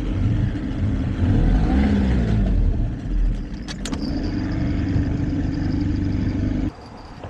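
Outboard motor on an old bass boat running, with a couple of sharp clicks about four seconds in; the engine sound cuts off abruptly near the end.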